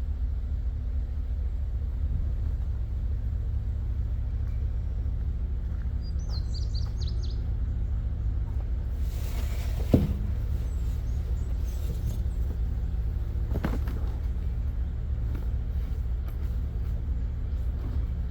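Pickup truck engine idling with a steady low hum. A bird chirps briefly a few seconds in, and a single sharp knock stands out about ten seconds in.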